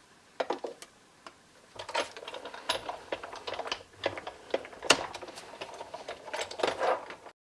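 A few plastic clicks, then a hand-cranked die-cutting machine feeding a Framelits die and cutting plates through its rollers, with irregular clicking and knocking as it is cranked, cutting out a scalloped circle of card.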